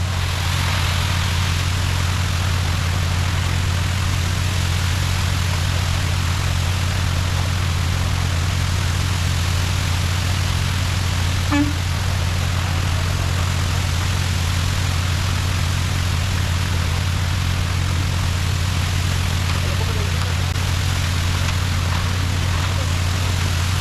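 Concrete truck's diesel engine running steadily at constant speed, a low even hum with a single short knock about halfway through.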